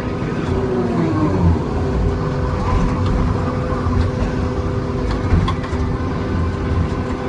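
John Deere 2954D log loader's diesel engine running steadily under load, its pitch gliding briefly about a second in, with scattered light knocks.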